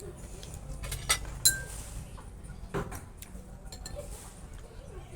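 Cutlery and dishes clinking during a meal, with a few sharp clinks, the loudest two a little over a second in, one of them briefly ringing like glass or china.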